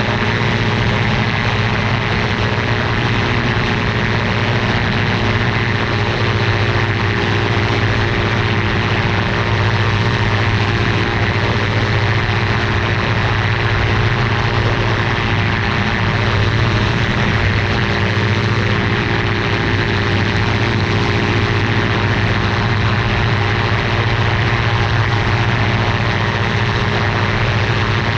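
Ultralight aircraft's engine and propeller running steadily at a constant speed, with a rushing hiss of airflow over it.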